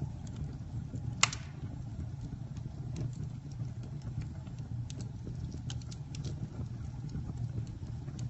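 Campfire burning: a steady low rumble with scattered crackles of burning wood, and one loud pop about a second in.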